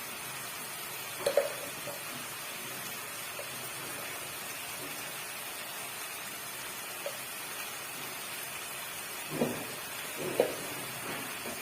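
Chicken and spices frying in oil in a pan, giving a steady sizzle, with a few brief knocks, about one second in and twice near the end.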